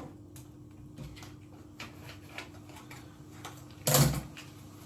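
Kitchen handling sounds: scattered light clicks and taps, with one louder clatter about four seconds in.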